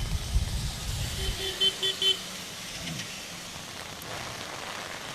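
Street traffic with a vehicle horn giving four short, quick beeps just over a second in, over a steady background hiss. A low rumble comes in at the start.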